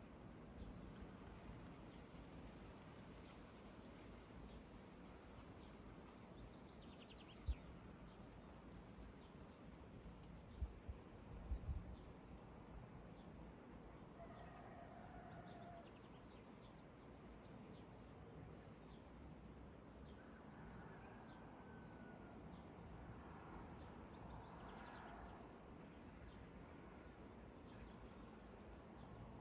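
Faint, steady high-pitched insect trill, with a few faint bird calls in the second half and a few soft low bumps early on.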